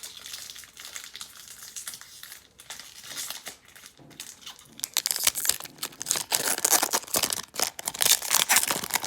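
Foil wrapper of a Magic: The Gathering Core Set 2020 booster pack crinkling and tearing as it is ripped open and handled. The crinkling gets much louder about halfway through.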